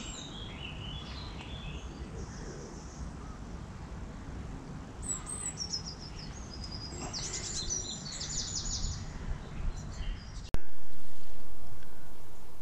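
Small birds singing in short repeated phrases, over a low rumbling background noise that stops abruptly near the end.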